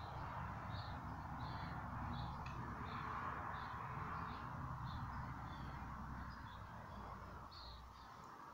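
Birds chirping with short calls repeating about once or twice a second, over a steady background hiss and low rumble.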